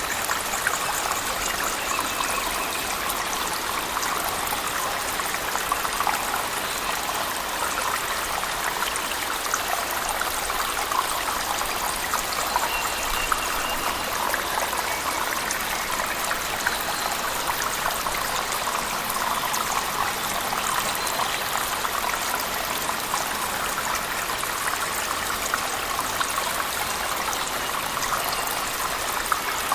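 Cave waterfall with heavy rain: a steady, even rush of falling water, dotted with many small ticks of drops.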